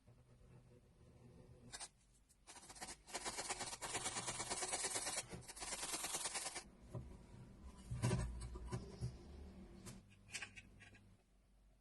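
Rough rubbing or scraping in two spells of a few seconds each, with scattered light knocks and clicks before and after.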